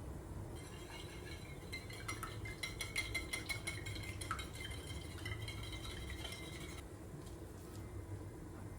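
Kitchen utensils clinking against dishes: a quick run of light clinks with a ringing tone, starting about half a second in, busiest around the middle and stopping near the end.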